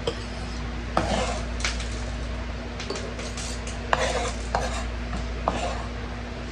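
A kitchen knife knocking on a cutting board while mincing garlic: six or so irregular, spaced-out knocks, sparser than steady chopping, over a steady low hum.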